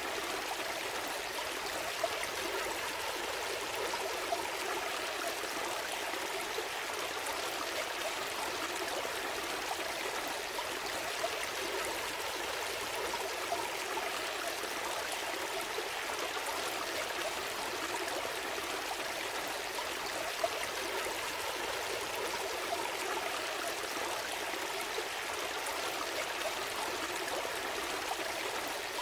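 Small stream flowing steadily over stones, a continuous babble and trickle with occasional brief splashes.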